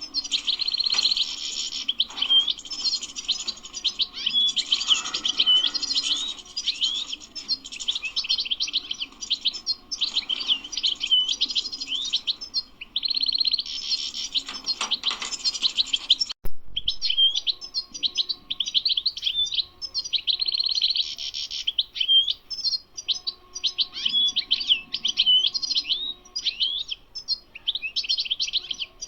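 European goldfinch singing: a fast, almost unbroken run of high twittering and tinkling notes. The song pauses briefly about twelve seconds in, breaks off abruptly a few seconds later, then resumes.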